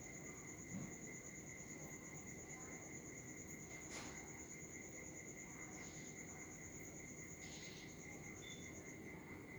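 A faint, steady, high-pitched pulsing trill, cricket-like, running throughout. There is a sharp click about four seconds in, a few soft rustles later on, and a brief peep near the end.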